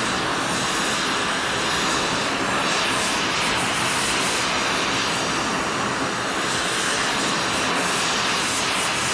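A cutting torch running with a steady hissing roar, unbroken throughout.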